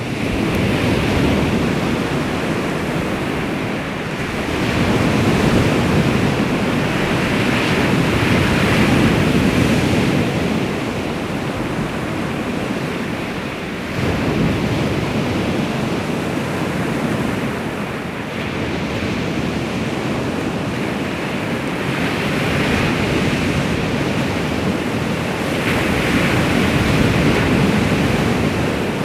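Baltic Sea waves washing onto the shore, a continuous surf that swells and eases every few seconds, with wind on the microphone.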